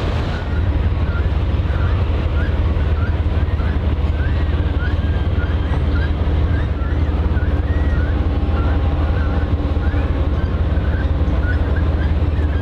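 Deep, steady engine rumble of a large ship under way, with wind and water noise, and a quick series of short high chirps over it.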